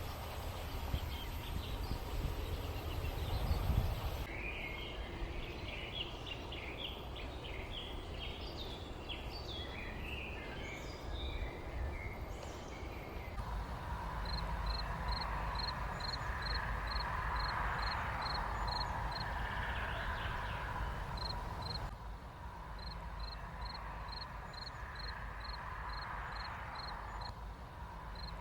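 Outdoor countryside ambience with a steady low rumble underneath. Birds chirp busily through the first half. Later a high, short call repeats about twice a second. The background changes abruptly a few times.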